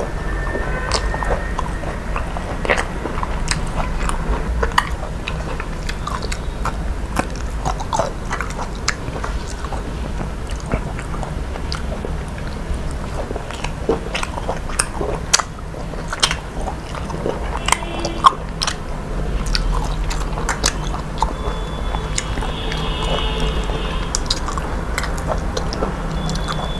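A person eating close to the microphone, biting and chewing with many short, crisp clicks and crackles, over a steady low hum.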